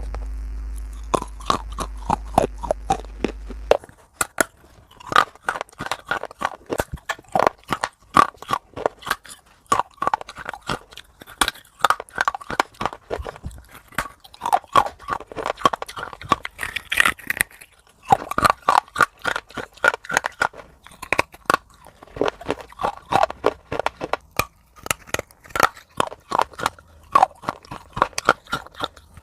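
Close-miked eating of crunchy food: a quick, irregular run of crisp crunches and crackles as it is bitten and chewed. A steady low hum sits under the crunching for the first few seconds and stops suddenly about four seconds in.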